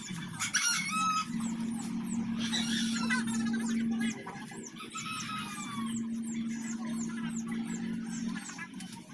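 Small birds chirping and twittering in quick, repeated calls, with a steady low hum that stops and starts twice.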